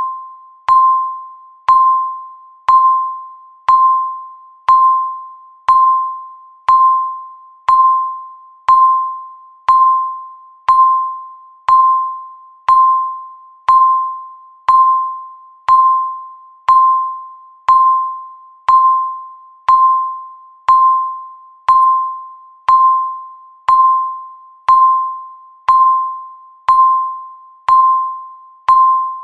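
Countdown timer's tick sound: a short, sharp pitched tick once every second, each one fading quickly before the next, marking the seconds as the timer counts down.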